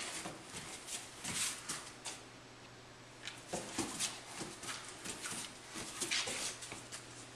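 Doberman puppy chewing and licking at the tape wrapped on her tail: irregular small clicks, smacks and rustles.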